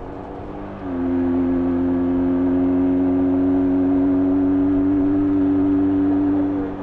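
A 1994 Jawa 350 two-stroke twin motorcycle engine with its stock exhaust, heard while riding. About a second in the throttle opens and the engine gets much louder, then holds steady revs under load. Near the end the throttle closes and the sound drops back.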